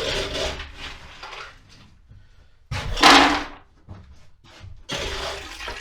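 A series of knocks and clatters from things being handled, with the loudest one about three seconds in.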